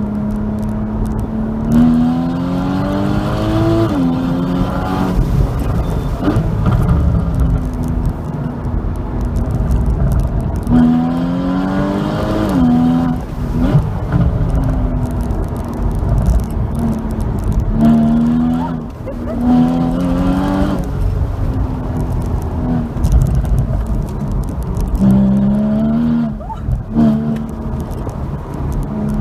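Porsche Boxster 981 GTS's flat-six engine under hard track driving, its revs climbing and dropping back sharply several times as the car accelerates out of corners and lifts or shifts, with steadier stretches between and road noise underneath.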